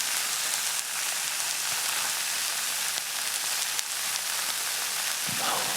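Monjayaki batter sizzling on a hot iron griddle: a steady, even hiss with a few faint crackles.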